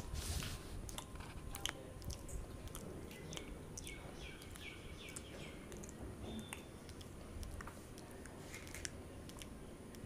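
A person chewing and eating a samosa dipped in chutney, with many small wet mouth clicks.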